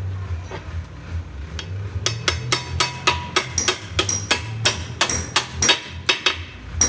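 Rapid, evenly spaced hammer blows on metal, about five a second, starting about two seconds in, each with a short metallic ring, over a steady low hum.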